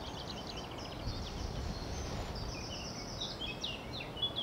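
Small birds chirping and twittering in quick, high notes over a steady low rush of wind.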